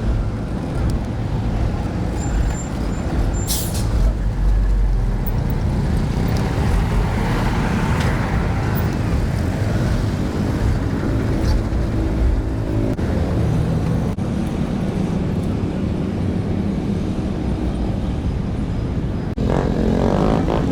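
Steady road traffic noise, with motor vehicle engines passing close by.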